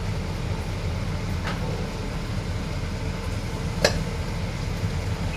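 Steady low background rumble, with a faint click about one and a half seconds in and a sharper click about four seconds in.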